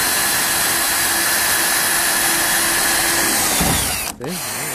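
Electric power drill running at high speed, boring a hole into the truck. It stops briefly about four seconds in, then starts again.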